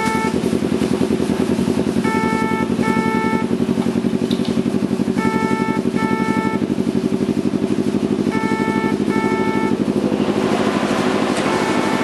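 Kawasaki Ninja 250R parallel-twin idling steadily through an aftermarket performance exhaust, with a fast, even pulsing note. A short double beep repeats about every three seconds over the engine.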